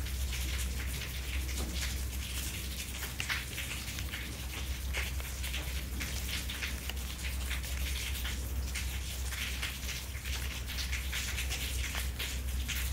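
Steady rain falling, a dense patter of many small drop impacts on leaves and wet pavement, with a steady low rumble underneath.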